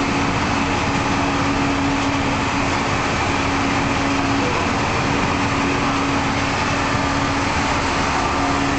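Steady machine noise with a constant low hum, unchanging throughout.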